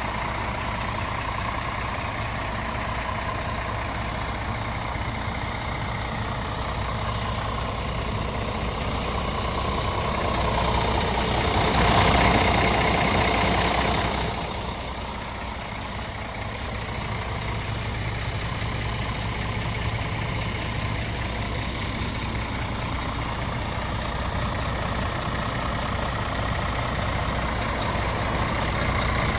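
Scania R450's 13-litre straight-six diesel idling steadily. It grows louder for a few seconds around the middle, then settles back.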